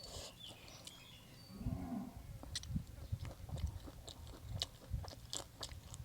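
A person chewing a mouthful of stir-fried instant noodles: soft, uneven mouth clicks and low thumps that begin about a second and a half in.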